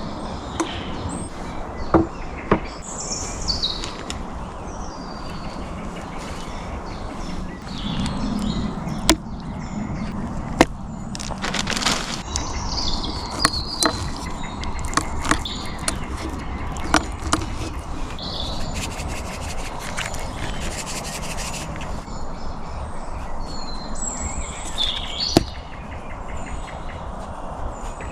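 Birds chirping in woodland, with scattered sharp knocks and some rubbing and scraping from wood or camp gear being handled.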